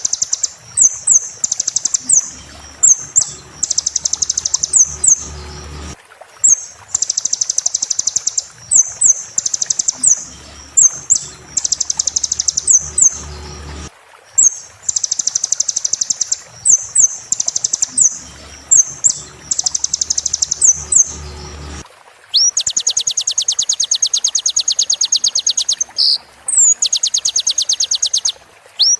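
Recorded small songbird song, played as a training track: a looped phrase of high, rapid chirps and short whistled notes that repeats three times about every eight seconds. From about 22 seconds in it changes to a fast, steady, buzzy trill, broken off once near the end.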